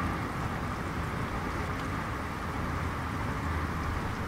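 Steady rain ambience: an even hiss with a low rumble underneath, unchanging throughout.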